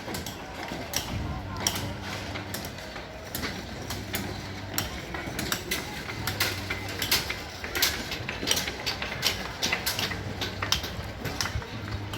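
Scattered sharp knocks and clinks in irregular quick succession, the sound of people working among demolition rubble and metal. Under them a low machine hum comes and goes, with faint voices.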